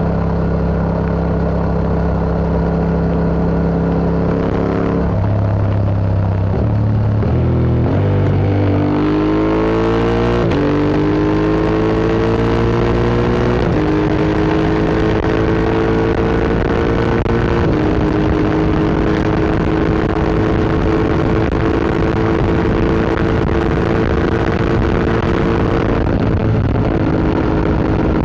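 Yamaha MT-07's parallel-twin engine through an Akrapovic Racing Line exhaust while riding. It holds a steady note, drops about five seconds in, then revs up in steps between about eight and eighteen seconds as it shifts up through the gears. It then holds a steady cruise, with another change near the end.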